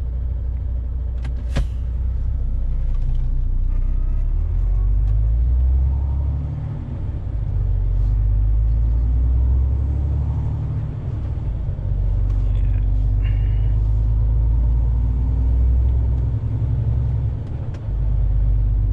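Heavy lorry's diesel engine running under load, a deep drone heard from inside the cab. The drone drops away and picks up again about three times, with a single sharp click shortly after the start.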